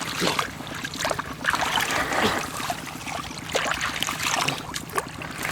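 Water splashing and trickling unevenly, with short sharp splashes among the noise.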